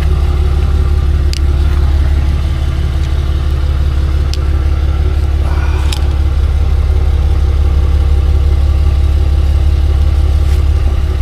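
Tow truck engine running steadily with a deep, even rumble, with a few faint clicks over it.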